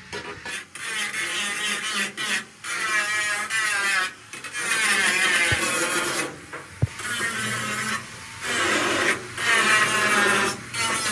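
Hand abrasive work on metal bodywork: repeated rasping strokes in runs of one to two seconds with short breaks between them, and a single sharp click about seven seconds in.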